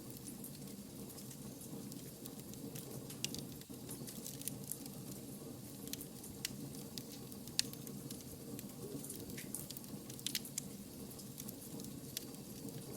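Wood fire burning, a steady low hiss with irregular crackles and pops from the burning logs.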